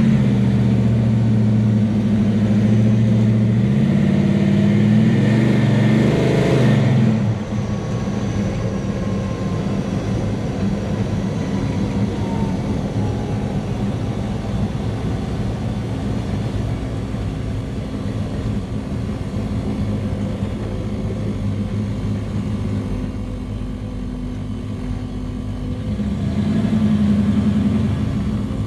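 Big-block V8 of a 1967 Chevelle drag car pulling hard, its note climbing for the first several seconds and sweeping up sharply about seven seconds in before dropping to a lower, steadier running. The engine gets louder again near the end.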